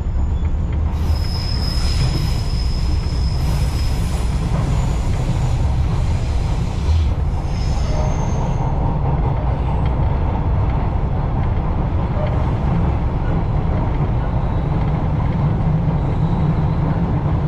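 Echizen Railway electric train running, heard from inside the carriage: a steady low rumble of wheels on rail. High-pitched wheel squeal sets in about a second in for a few seconds, and again briefly about eight seconds in.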